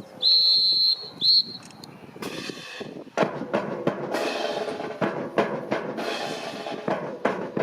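Two shrill whistle blasts, one long and one short, followed about two seconds in by a marching drum corps starting up, with snare and bass drums playing a steady rhythm.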